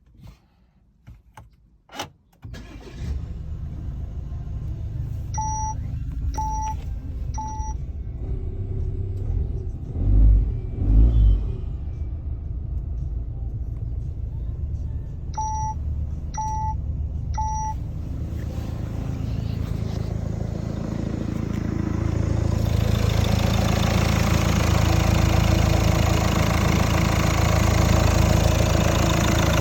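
Citroën 1.5 HDi four-cylinder diesel engine starting about two and a half seconds in, after a few clicks, then idling steadily. Two brief louder surges come around ten seconds in. A dashboard chime beeps three times, twice over. Near the end the engine sound grows louder and takes on a hiss.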